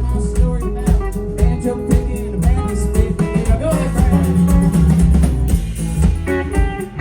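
Live band playing a song: guitar over bass and a drum kit keeping a steady beat.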